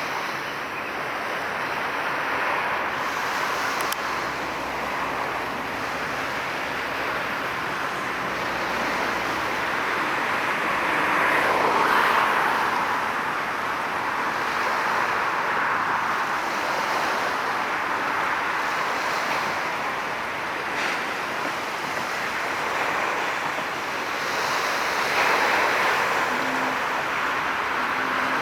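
Steady rushing noise of distant road traffic, swelling about twelve seconds in and again near the end as vehicles pass.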